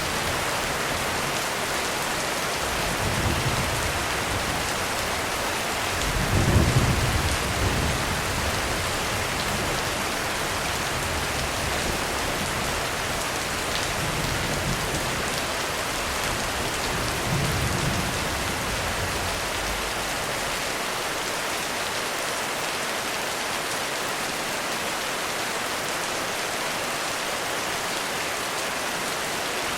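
Heavy rain falling steadily on a roof, with low thunder rumbling several times in the first two-thirds, the loudest roll about six seconds in.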